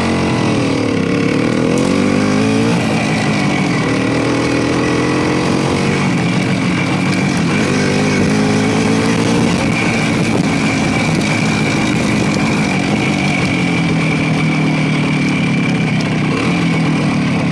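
Motorcycle engine running while riding, its pitch rising and falling with the throttle over a steady rushing noise.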